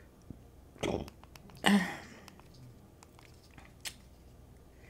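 A person chewing food close to the microphone, with small wet mouth clicks and two short breaths, about one and two seconds in.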